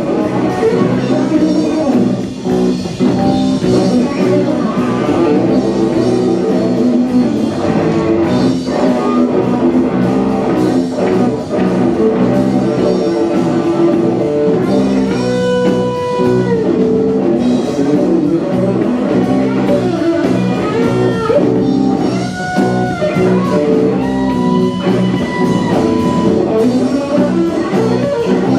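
Live band playing a bluesy rock song led by guitar, with long bending lead notes in the middle.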